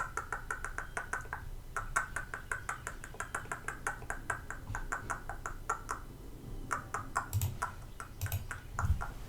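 Rapid light clicking, about five or six clicks a second, with a few dull low thumps near the end.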